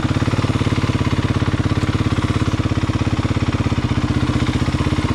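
Four-stroke single-cylinder dirt bike engine idling steadily, an even, fast beat that neither rises nor falls.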